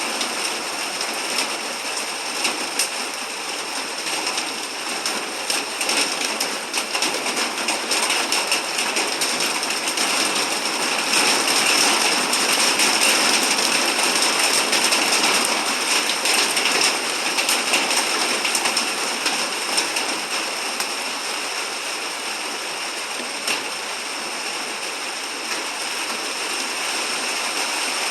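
Heavy rain falling steadily, a dense hiss full of small drop ticks, growing louder for several seconds in the middle before easing back.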